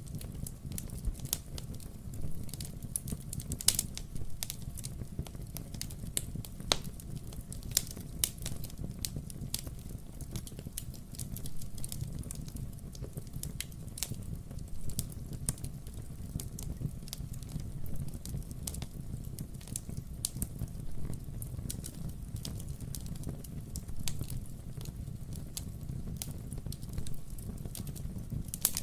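Wood-burning fireplace: burning logs crackling, with frequent irregular sharp pops over a steady low rumble of the flames.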